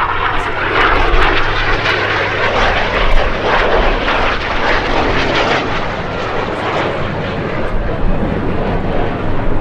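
Loud aircraft engine noise, a steady rushing roar that is strongest in the first few seconds and eases a little after about six seconds.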